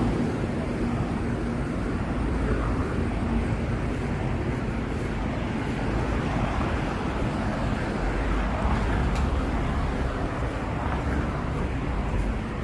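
Street ambience: a steady, even rush of road traffic.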